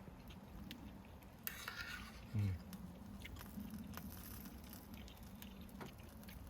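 Quiet eating: chewing with scattered faint clicks, and a short hummed "mm" about two and a half seconds in.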